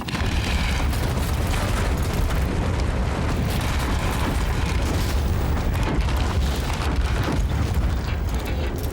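Loud, continuous heavy rumbling with dense crashing and clattering, starting abruptly after near silence.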